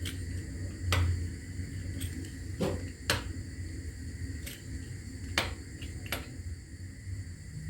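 Kitchen utensils and dishes being handled: about seven light clinks and taps spaced irregularly, over a low steady hum.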